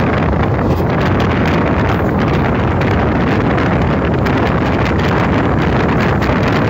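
Passenger train running at speed, heard from an open coach door or window: a steady rush of wheel and rail noise mixed with heavy wind buffeting the microphone.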